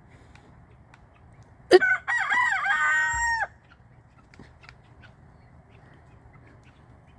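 Rooster crowing once: a single call of nearly two seconds, starting about two seconds in and ending on a long held note that cuts off sharply.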